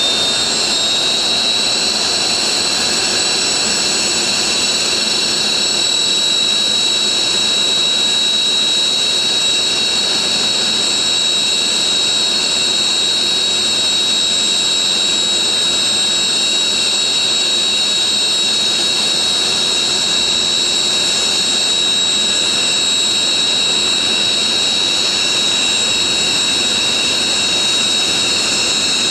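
Military jet engines running on the ground with a steady high-pitched whine over a broad rush. The whine rises slightly in pitch in the first second, then holds steady.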